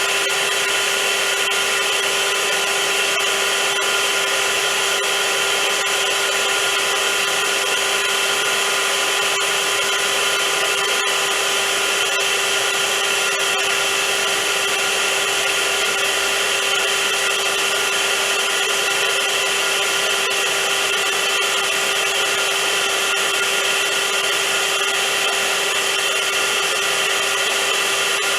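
Vacuum cleaner running continuously: a loud, steady hiss of rushing air with a constant motor hum and whine that never changes.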